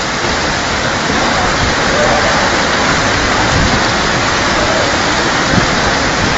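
Heavy rain pouring down with rushing water, a dense, even hiss.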